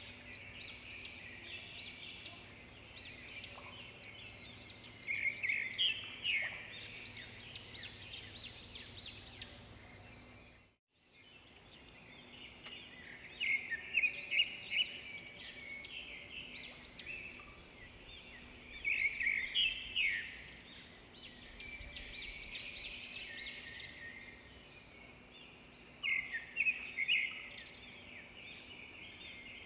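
Several birds chirping and singing at once, with quick overlapping high chirps and trills in bursts that rise and fall. The sound cuts out completely for a moment about ten seconds in, then the birdsong resumes.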